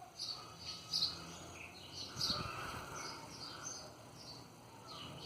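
Small birds chirping: short, high calls scattered irregularly, loudest about a second in and again around two seconds in.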